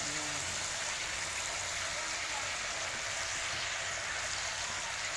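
Marinated pork chops frying in a pan of hot oil: a steady sizzle.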